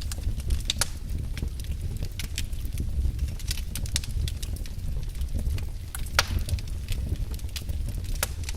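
Wood fire burning in a fireplace: a steady low rumble with frequent sharp crackles and pops from the burning logs, one louder pop about six seconds in.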